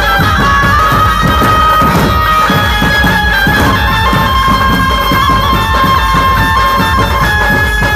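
Dhumal band music: a lead melody of long held notes that step between pitches every second or so, over fast, dense drumming.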